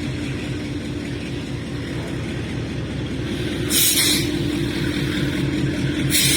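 A train running with a steady low rumble and a continuous hum, broken twice by short loud hisses, about four seconds in and again near the end.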